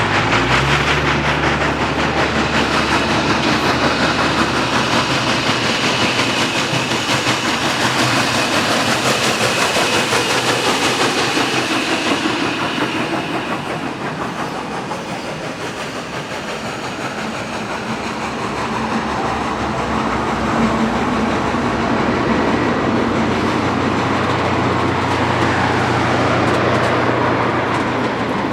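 Train rolling past on the rails: a continuous rumble and clatter of wheels, with a steady low engine hum at the start and again near the end. The noise eases off slightly in the middle.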